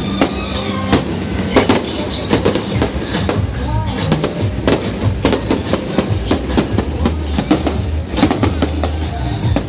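A string of firecrackers going off, a dense, unbroken run of rapid cracks and bangs.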